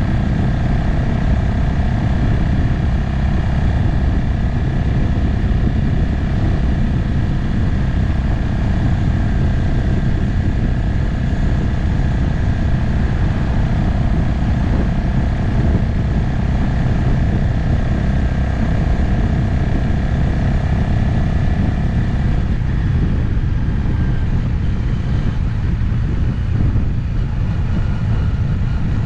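Motorcycle riding at a steady cruising pace, its engine running under a dense rush of road and wind noise. The engine note stays steady, then changes and drops away about three-quarters of the way through.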